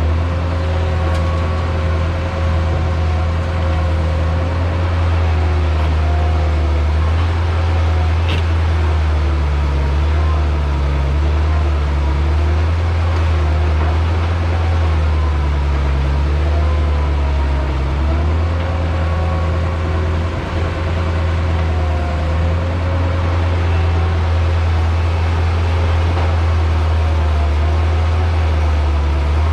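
Diesel engine of heavy earthmoving equipment running steadily under load: a loud, constant low drone with higher tones that rise and fall slightly in pitch.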